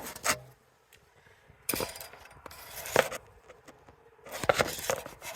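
Scrapes and knocks from a camera being set down and handled: a few separate short bursts with quieter stretches between.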